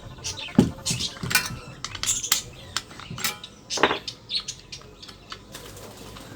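Irregular clinks and knocks of hard, likely metal objects being handled, about a dozen sharp hits of varying loudness, with no motor running.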